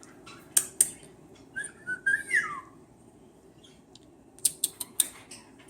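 Cockatiel giving a short whistled phrase, held level and then falling in pitch at the end, with a few sharp clicks before and after.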